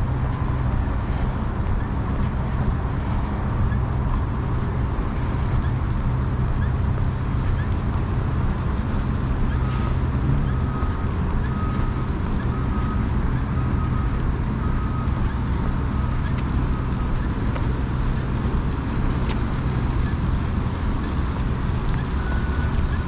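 Steady low rumble of a running motor vehicle engine. From about ten seconds in, a vehicle's back-up alarm gives faint, evenly spaced beeps about once a second; higher-pitched beeps start near the end.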